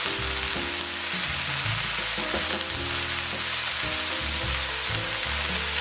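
Mung bean sprouts sizzling steadily in a nonstick frying pan over high heat, under background music.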